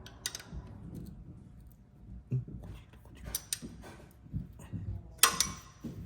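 Metal hand-tool clicks and knocks as a 5/8-inch socket wrench works the primary oil drain plug loose, with one sharp, ringing metallic clink about five seconds in.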